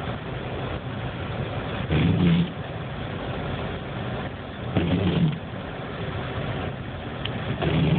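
Steady engine and road noise heard from inside a moving car. Three times, about every three seconds, a short low sound of about half a second rises above it.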